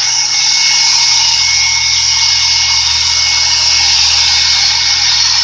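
2008 Yamaha YZF-R6 inline-four engine idling steadily, with its electric cooling fan running over it as a steady whir and hiss.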